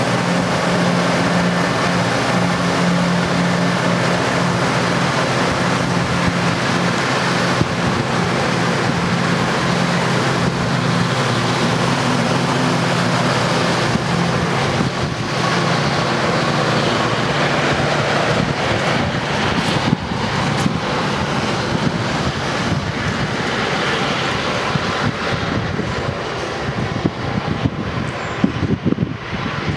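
A diesel train passing close by. A steady engine drone in the first half gives way to the continuous rushing noise of the cars rolling past.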